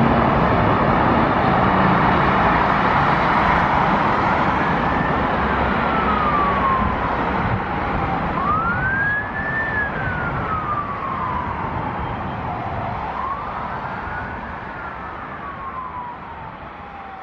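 Jet aircraft noise slowly fading away, with a slow wailing emergency-vehicle siren rising and falling three times over it from about four seconds in.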